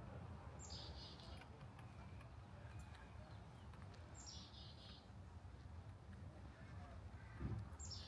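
A small songbird gives the same short call three times, about three and a half seconds apart: a high thin note dropping into a brief buzzy trill. A low steady rumble runs underneath, and there is a soft thump near the end.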